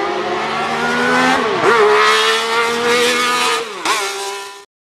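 Classic Mini's A-series four-cylinder engine running hard under acceleration, its pitch slowly climbing. Twice the revs dip sharply and pick straight back up. The sound cuts off abruptly near the end.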